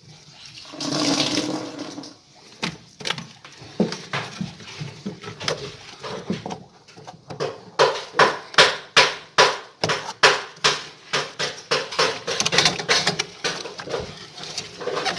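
A short hissing rush about a second in, then a run of sharp knocks and taps, about three a second, loudest in the middle.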